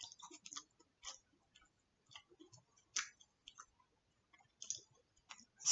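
A person chewing a hard, crunchy cookie: faint, irregular crunches and mouth clicks, with one louder crunch about three seconds in.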